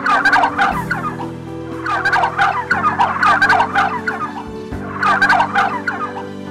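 Three bouts of rapid, chattering bird calls, with steady low tones beneath.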